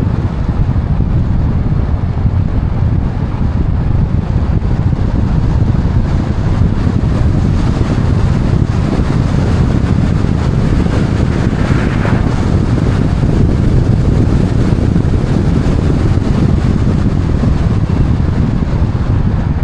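Steady, loud rumble of wind buffeting the microphone, strongest in the low end, with no distinct events.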